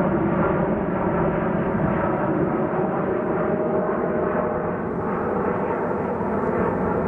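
Jet airliner engines running at high power during a takeoff: a steady, loud rush of engine noise with a faint whine inside it.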